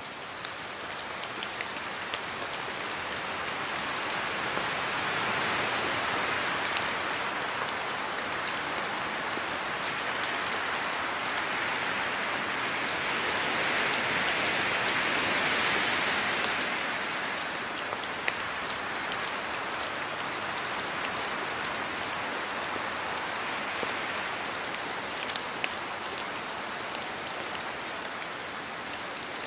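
Steady rain falling, with individual drops tapping sharply through the hiss. It swells louder twice, about a fifth of the way in and again around the middle, then eases.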